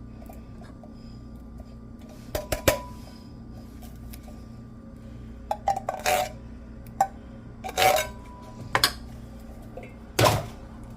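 A kitchen utensil clinking and scraping against a cooking pot in several short clatters, as vegetables go into the pot filling and are stirred. A steady low hum runs underneath.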